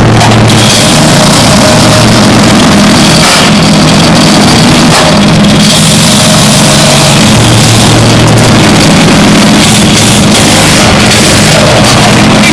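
Tractor engine running hard and loud enough to overload the microphone, its pitch stepping up and down a few times as the throttle and load change.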